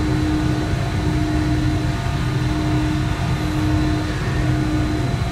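Passenger train running at speed, heard from inside the carriage: a steady rumble of the running gear with a steady low hum and a faint high tone.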